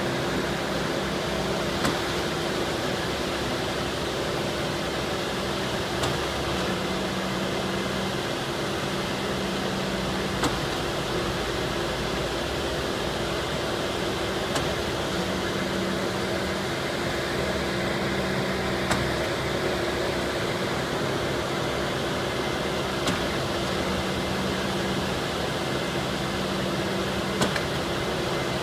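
Truck-mounted concrete pump at work: the Mercedes-Benz Actros V8 engine and pump hydraulics run with a steady hum. A short sharp knock comes about every four seconds as the pump changes stroke.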